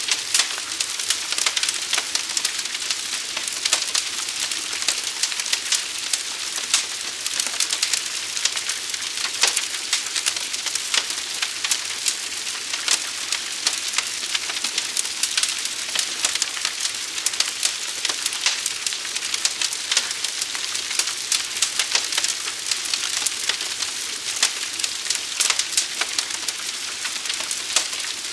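Fire burning steadily: a dense, constant crackle of many small sharp pops and snaps over a hiss.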